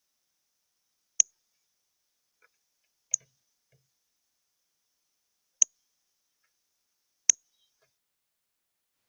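Birds at a feeder making four sharp, high clicks a couple of seconds apart, with a few fainter ticks between.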